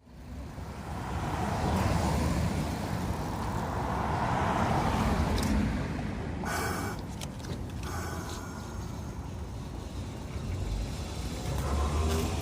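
City street traffic rumbling steadily, with a short sharper sound about six and a half seconds in.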